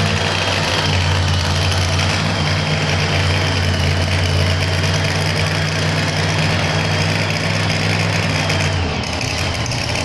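Top fuel pulling truck's engine idling with a steady low note, which drops away about nine seconds in.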